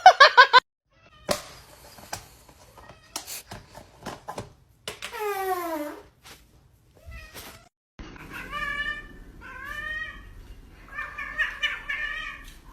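Cats meowing: one long meow that falls in pitch about five seconds in, then three shorter meows one after another in the last few seconds. A short loud burst sounds at the very start, with scattered light clicks and knocks between the calls.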